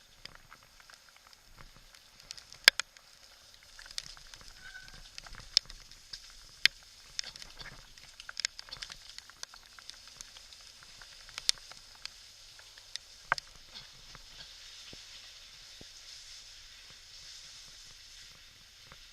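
Steady hiss of heavy rain, with about a dozen sharp knocks and clicks at irregular moments.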